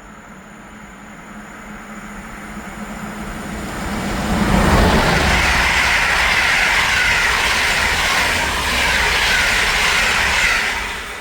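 A passing train, approaching and growing louder for about four seconds, then a loud steady rush of wheels on rail for about six seconds that falls away quickly near the end.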